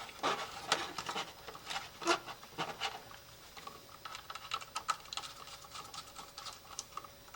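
Light irregular clicks and scrapes of small wires being handled and fitted into a temperature controller's screw terminals.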